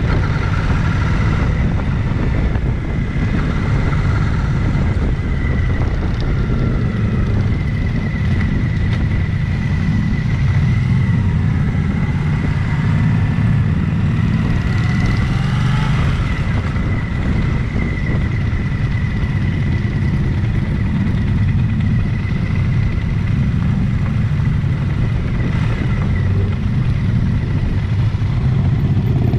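Motorcycle engine running steadily while riding along the road, with wind buffeting the microphone and a thin steady whine held throughout.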